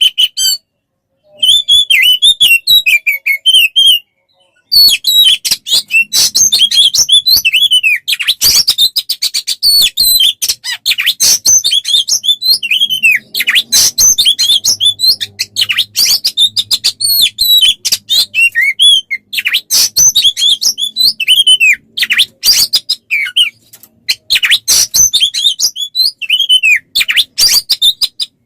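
Loud, fast songbird song of dense chirps, whistled phrases and sweeping trills, the kind of masteran birdsong recording used to train oriental magpie-robins. It pauses briefly about a second in and again around four seconds.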